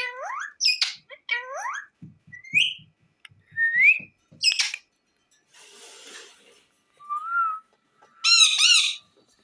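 A parrot whistling and calling: a run of short rising whistles and chirps, then a louder, harsher wavering call near the end.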